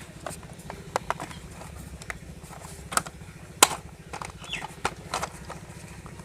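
Plastic toy car parts clicking and knocking irregularly as they are handled and pressed together at their mounting points, with two sharper knocks about three seconds in.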